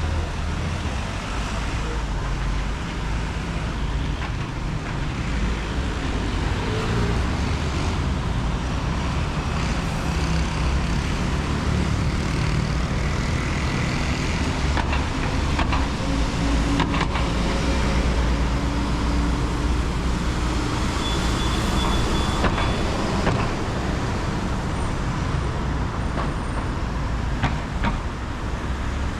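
City road traffic: cars, buses and trucks passing on a busy avenue, a steady low rumble.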